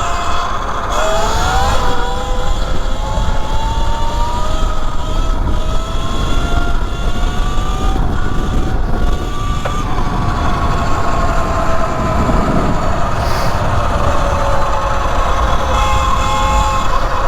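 E Ride Pro SS 3.0 electric motorcycle's motor whining, rising in pitch as it accelerates for about nine seconds, then slowly falling as it eases off. A steady low rumble of wind and road runs underneath.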